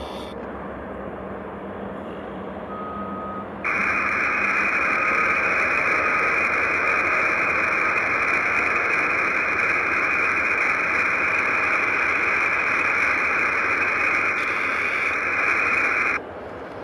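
Loud, steady static hiss on the air traffic control radio channel, with no voice on it, as on an open or keyed transmission. It switches on abruptly about four seconds in and cuts off just as sharply near the end. A brief beep-like tone sounds just before it starts.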